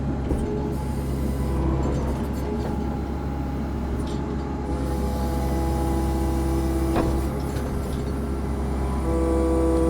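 Compact excavator engine running steadily under load while prying a large pine stump out of the ground, with steady whining tones from the hydraulics that come and go as the controls are worked. A single sharp snap about seven seconds in.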